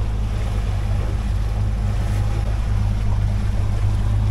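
The boat's Yamaha outboard running steadily under throttle as it pushes the boat forward a short way to reposition for the drift, a steady low drone.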